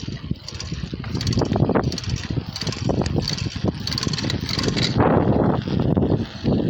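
Wind rumbling on a handheld phone microphone over the noise of a bicycle being ridden along, with uneven buffeting and small rattles.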